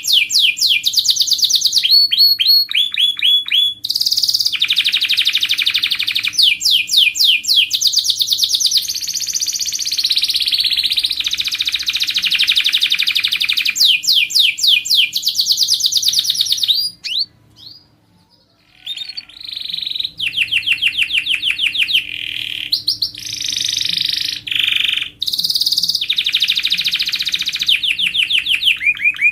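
Domestic canary singing a long, continuous song of fast repeated trills and rolling phrases, pausing briefly about two-thirds of the way through. A faint steady hum runs underneath.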